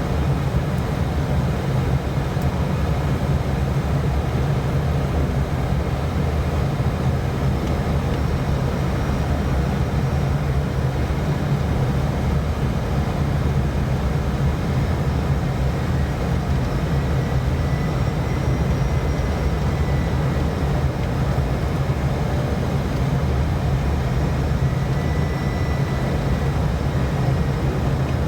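Steady cockpit noise of an airliner on final approach: airflow and engine drone with a deep low rumble, unchanging throughout. Faint thin high tones come in around the middle and again toward the end.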